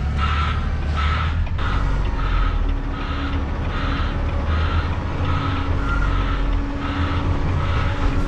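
Backup alarm beeping steadily, a little under one and a half beeps a second, over the low running of a semi-truck's diesel engine.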